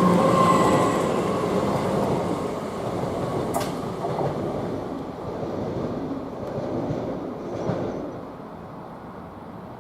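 Pair of Class 387 electric multiple units pulling away from the platform, their motor whine fading within the first second and the rail noise dying away as the train moves off. A single sharp click about three and a half seconds in.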